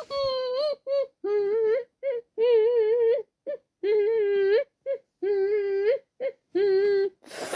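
A high cartoon voice humming a wordless tune in short, wavering notes, followed near the end by a brief whoosh.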